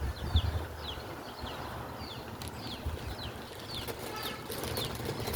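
A small animal chirping: short, high chirps, each falling in pitch, repeating about twice a second over a low background rumble.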